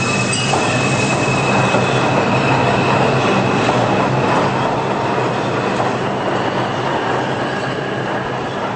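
New York City subway train running on the rails, with a high steady wheel squeal in the first few seconds over dense wheel-and-track noise and a low motor hum. The noise slowly fades toward the end.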